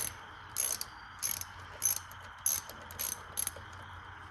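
Hand ratchet wrench clicking in short back-and-forth strokes, about one burst every half second, seven in all.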